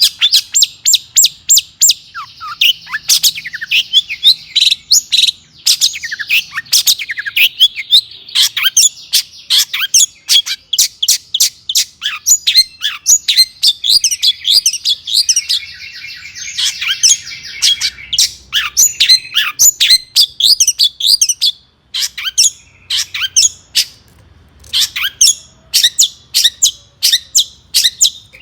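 Long-tailed shrike (cendet) singing a fast, varied chattering song of sharp, high notes, several a second, with a harsher buzzing passage about halfway through and a brief pause shortly after.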